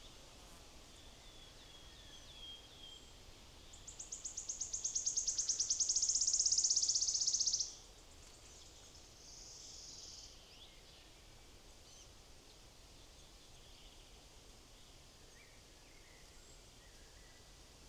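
A small songbird sings a fast trill of high, evenly repeated notes that grows louder for about four seconds and stops abruptly, followed a second later by a shorter buzzy phrase; a few faint high chirps come before it.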